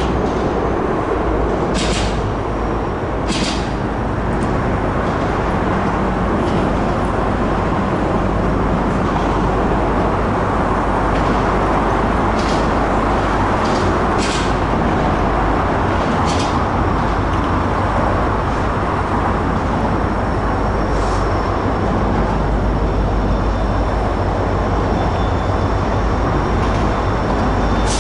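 Freight train rolling past, its railcar wheels making a steady rumble on the rails, with occasional sharp clicks and a faint high-pitched squeal in the second half.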